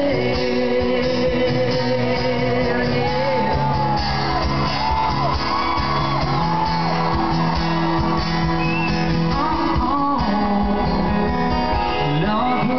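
Live country band music in a large arena, with guitar and a crowd shouting and singing along.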